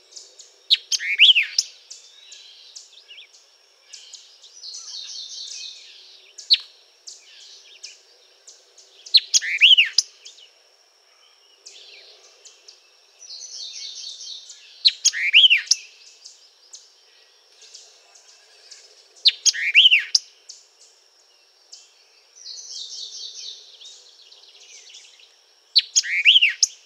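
White-eyed vireo singing its short, sharp song phrases, about five of them a few seconds apart, picked up by a parabolic microphone. A thin steady high tone and softer buzzy trills run underneath.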